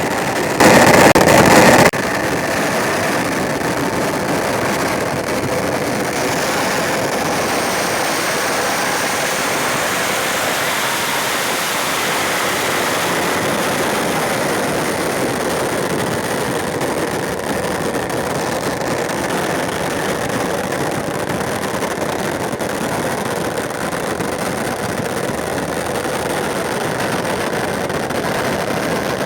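Huge festival bonfire burning with a steady rushing noise, with a louder burst about half a second in that lasts just over a second.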